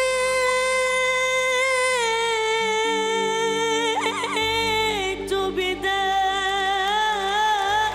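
A solo singer holds one long sustained note, steps down slightly and holds again, then slides into a new wavering note near the end. A soft instrumental backing with a low drone runs under the voice.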